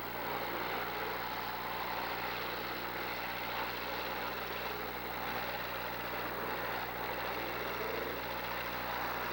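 Demolition derby cars' engines running together as a steady mass of engine noise, with one engine revving up briefly near the end.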